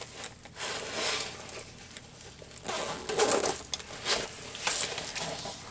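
Craft paper punches clattering and their bag rustling as they are handled, in a few short, irregular bursts.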